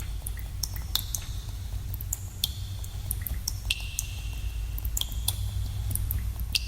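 Water drops falling in a cave: irregular plinks, roughly one or two a second, each with a short ringing tail. A steady low rumble runs underneath.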